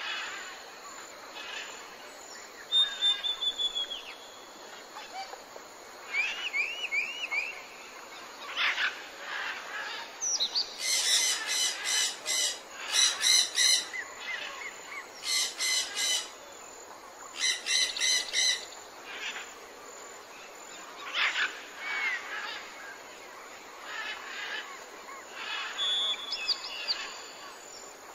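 Birdsong ambience: assorted short chirps and whistled calls over a steady outdoor background hiss, with four bursts of fast repeated notes in the middle.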